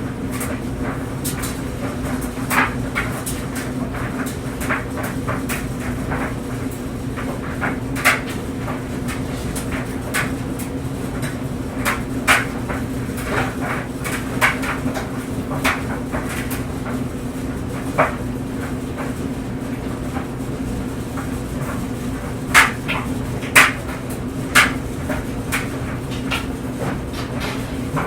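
Clothes dryer running with clothes tumbling: a steady low hum from the turning drum, with irregular light knocks as the load falls, a few louder ones in the second half.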